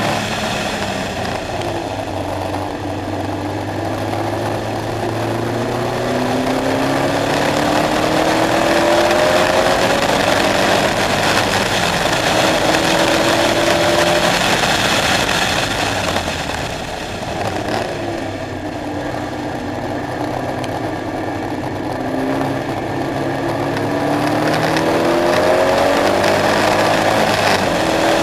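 KTM X-Bow sports car engine under hard acceleration on track, its pitch climbing through the revs and dropping back at each upshift. About halfway through it falls off and dips in level, lifting for a corner, then pulls up through the gears again.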